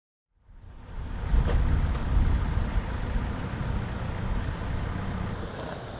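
A Volkswagen Beetle's air-cooled flat-four engine running with a low, steady rumble that fades in from silence, with a single light click about a second and a half in.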